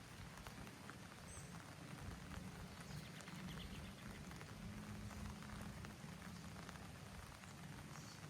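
Steady light rain falling outdoors, a soft patter of many small drops, over a low steady hum.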